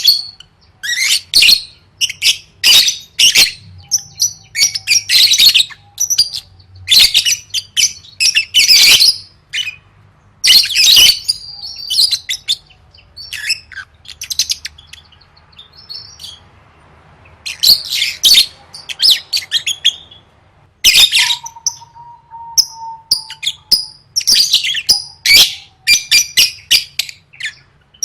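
Lovebird singing in repeated bursts of rapid, high-pitched chirping, each burst lasting a second or two, with short pauses between them and a longer quiet stretch around the middle.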